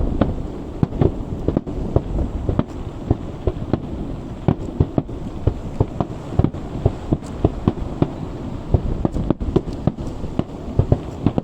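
A fireworks display going off: a rapid, irregular run of shell bursts and bangs, several a second, over a continuous rumble of overlapping explosions heard across open water.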